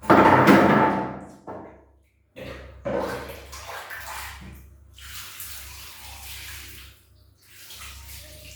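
Kitten meowing loudly while being bathed: a long loud cry at the start and another about three seconds in. Water runs and splashes from about five seconds on.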